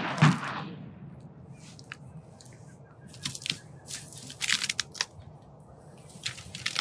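Crackling, rustling bursts of close handling noise, such as gear or clothing being moved, in clusters from about three seconds in and again near the end, over a low steady outdoor background.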